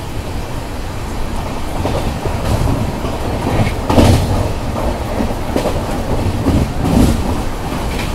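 Moving passenger train heard from inside the coach: a steady running rumble with the wheels clattering over rail joints, and louder knocks about four and seven seconds in.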